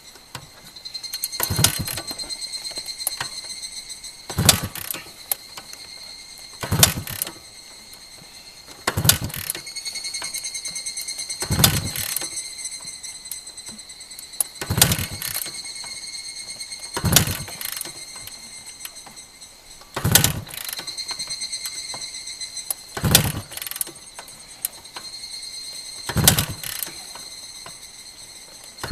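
Suzuki TS motorcycle being kick-started over and over, about ten kicks each two to three seconds apart, each a sharp mechanical thump with the kickstart ratchet. The engine does not catch. A high, steady ringing tone comes and goes between some of the kicks.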